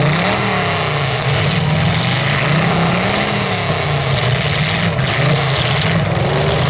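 Demolition derby car engine running hard through open header pipes. It revs up and down several times as the car pushes against another car.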